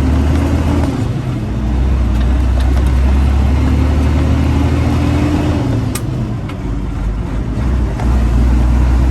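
Freightliner Classic XL tractor's diesel engine running, heard from inside the cab as a steady low drone; its pitch rises and then falls once. A single sharp click about six seconds in.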